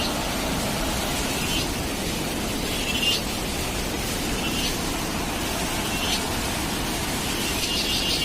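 Heavy rain on a moving car, a steady hiss with tyre and road noise beneath. A short high squeak repeats about every second and a half, typical of windscreen wipers sweeping. Near the end a rapid, high pulsing sound starts.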